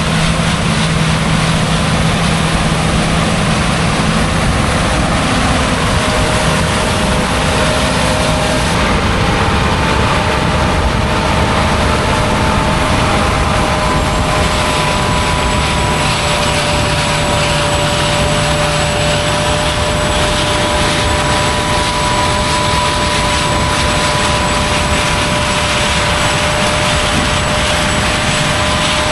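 Heavy farm machinery running steadily through a soybean harvest: a loud, constant mechanical drone with faint steady whines that come in partway through.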